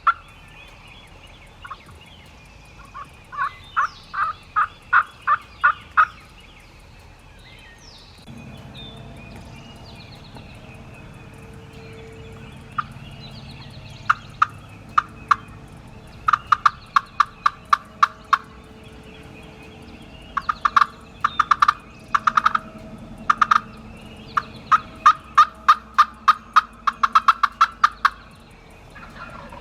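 Turkey yelping: several runs of about eight to twelve short, evenly spaced yelps, roughly four or five a second, with pauses between runs. A steady low background noise comes in about eight seconds in.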